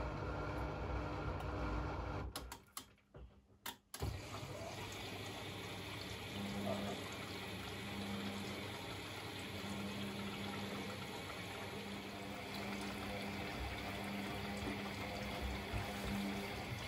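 Blomberg Granat 3200 washing machine mid-cycle: a low rumble that cuts out about two seconds in, a short near-silent gap with a few clicks, then water running and splashing inside the machine with a low hum that comes and goes about once a second.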